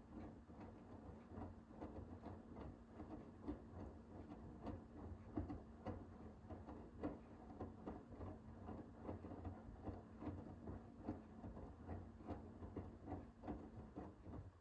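Hoover H-WASH 500 front-loading washing machine in its wash phase: the drum turns with a steady motor hum while the wet laundry tumbles, making many irregular soft knocks and patters. The hum and tumbling stop abruptly at the end as the drum halts.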